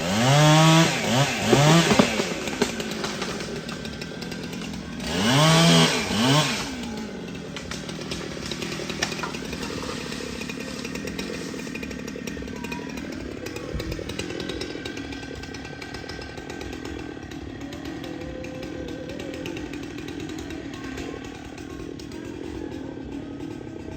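Chainsaw revved hard in two spells, its pitch rising and falling several times in quick succession, then running on steadily at a lower, quieter speed.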